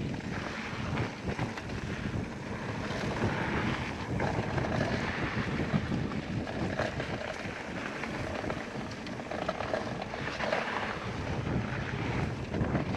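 Wind buffeting an action camera's microphone during a mountain-bike descent, a steady rushing rumble, with the tyres rolling over the dirt trail and scattered small clicks and rattles from the bike.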